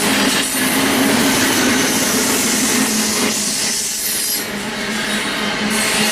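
Freight train cars rolling steadily past, a continuous rumble and clatter of steel wheels on the rails.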